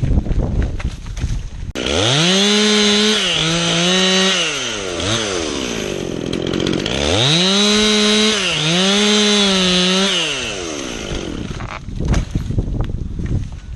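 Chainsaw run at full throttle in two spells, its pitch dipping briefly as the chain bites into the wood; it revs up about two seconds in, eases off around six seconds, revs again and drops back around ten seconds in. A crackling rustle comes before and after.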